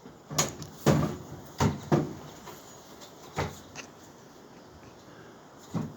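A series of irregular knocks and thumps as a wooden log and tools are handled and set down on a workbench. About seven knocks fall over the six seconds, the loudest in the first two.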